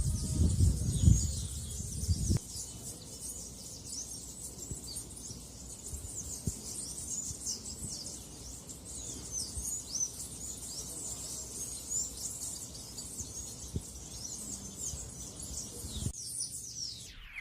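Many small birds twittering at once in a dense chorus of short, high chirps. Low thumps and rumble sound over it for the first two seconds or so.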